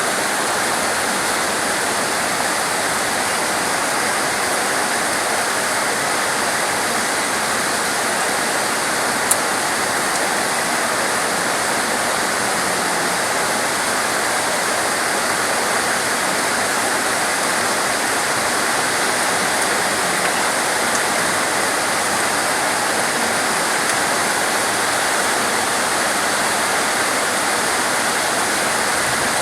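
Steady rain, an even, unbroken hiss of falling water, with one brief sharp tick about nine seconds in.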